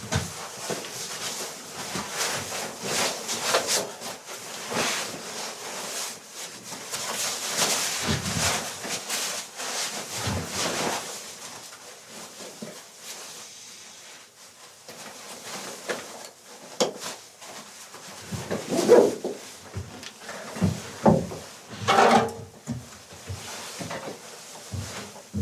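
Assorted knocks, clicks and scrapes of objects being handled in a small room, busy for the first half, quieter for a few seconds, then a few louder short knocks in the second half.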